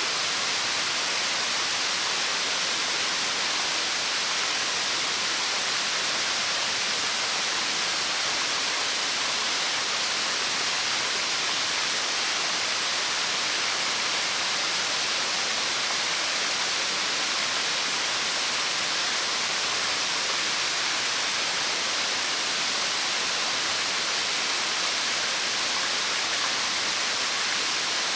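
Ochiuchi Falls, a 30 m branching waterfall, pouring steadily: an even, unbroken rush of falling water, heaviest in the hiss.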